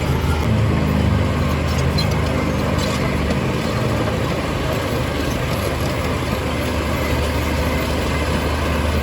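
Heavy construction machine's diesel engine running steadily with a low, even hum; a higher engine note rides over it for the first few seconds and then fades.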